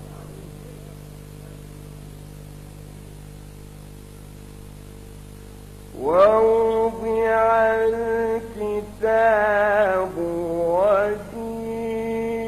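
A man's voice in melodic Quranic recitation (tajweed), coming in about halfway through with a sharply rising, ornamented melismatic line and ending in a long held note. Before it there are a few seconds of quiet hall sound with a faint steady hum.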